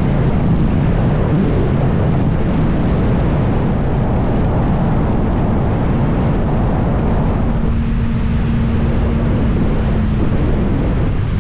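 A 2024 Kawasaki ZX-6R's inline-four engine running under way, largely buried under wind rushing over the microphone. The engine note holds steady for a few seconds late on, then drops away.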